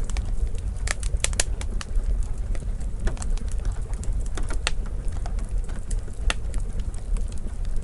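Wood fire in a fireplace crackling: irregular sharp pops and snaps, a few louder ones, over a low steady rumble.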